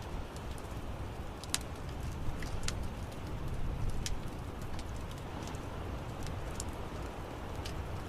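Wood fire crackling in an outdoor fireplace: scattered sharp pops and snaps over a steady low rumble.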